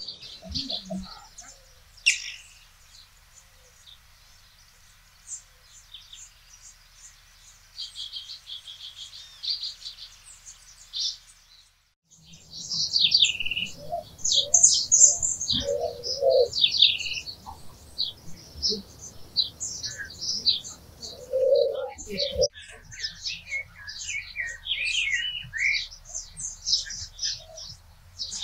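Several small birds chirping and singing in quick high notes, sparse at first and busier and louder after a brief dropout about twelve seconds in, with a few lower notes mixed in.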